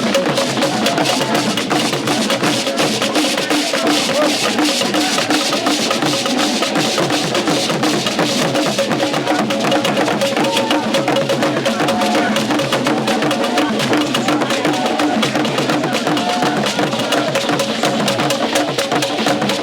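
Percussion-led music: drums with a quick, repeating struck pattern over a held pitched tone.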